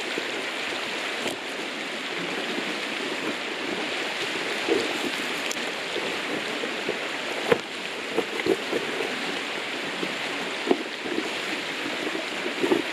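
Campfire crackling and popping as dry leaves burn, with a few sharp snaps. Underneath is the steady rush of a flowing river.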